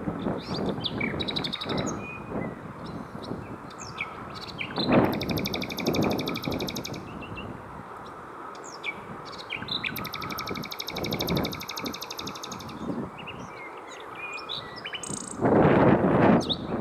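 Common nightingale singing: short whistled and clicking notes, and two long, rapid trills of fast-repeated high notes. Bursts of low rushing noise come and go, loudest near the end.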